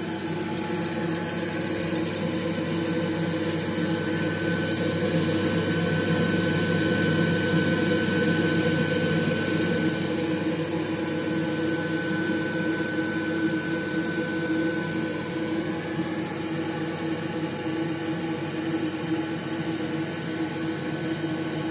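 Baxi gas boiler running with a steady mechanical hum, and a thin high whine that comes in a few seconds in and fades out about two-thirds of the way through.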